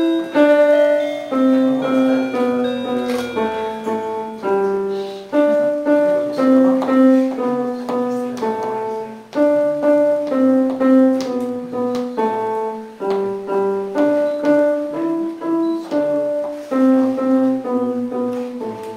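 Piano playing a melody of separate struck notes, the same short phrase repeating about every four to five seconds.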